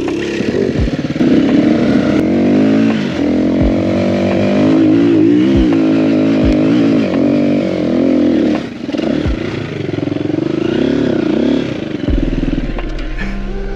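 Dirt bike engine running on a trail, its revs rising and falling with the throttle, with a few sharp knocks along the way. Near the end the revs drop and it settles to a low steady run.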